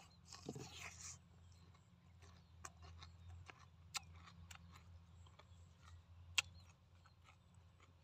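A person biting into a crisp cucumber slice, a short crunch in the first second, then quiet chewing with scattered wet mouth clicks and smacks. One sharper click comes about three-quarters of the way through.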